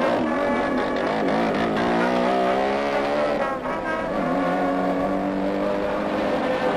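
Small engine of a motorcycle rickshaw running under load as it pulls away, its pitch wavering and then rising, dropping sharply about three and a half seconds in at a gear change, then rising again.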